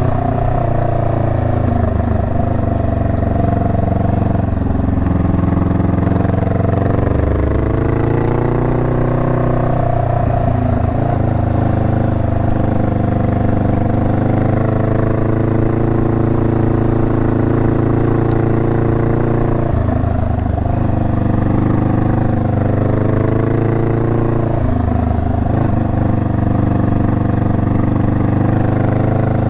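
Honda Rebel 500's parallel-twin engine running under way on a ride, its note sinking and climbing again a few times as the revs change, around a third, two-thirds and most of the way through.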